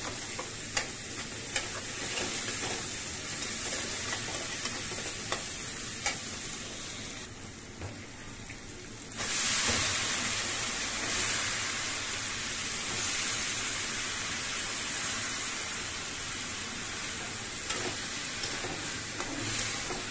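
Shrimp and green chillies sizzling in hot oil in a pan, with a metal spatula scraping and tapping as they are stirred. About nine seconds in the sizzle jumps suddenly louder, and sliced bitter gourd keeps frying and steaming in the pan while it is stirred.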